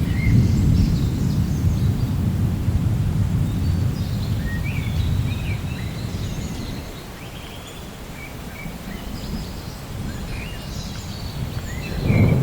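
Rolling thunder rumbling low, loud at first and dying away over the middle, then building again near the end. Short bird chirps sound over it now and then.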